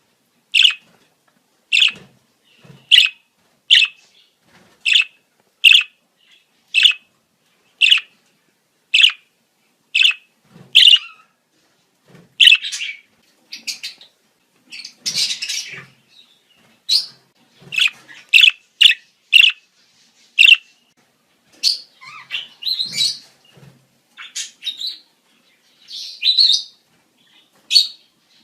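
Budgerigars calling: short, sharp chirps about once a second, giving way about halfway through to denser, more varied chatter and warbling. These are the breeding-season calls of budgies.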